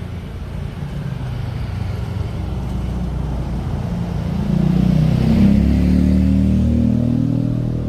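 A road vehicle's engine drawing near and passing close by on the street, loudest about five to six seconds in, then easing off a little.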